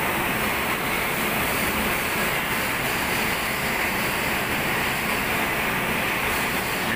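Steady, loud rushing noise with no distinct tone or rhythm, cutting off suddenly near the end.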